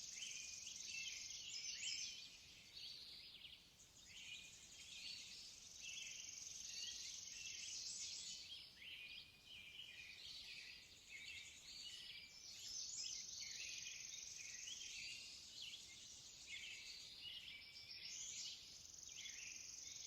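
Faint birdsong: many small birds chirping and trilling over one another in a dense, unbroken chorus of short high notes.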